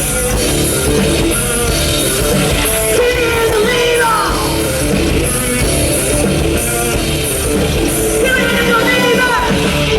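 A rock band playing live, with a singer's sung lines over the band.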